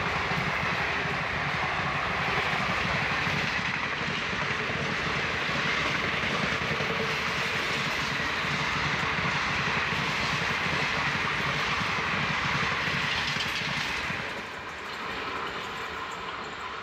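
Railway noise heard from aboard a moving passenger train: a steady rumble and rattle of wheels on rails that drops off noticeably about fourteen seconds in.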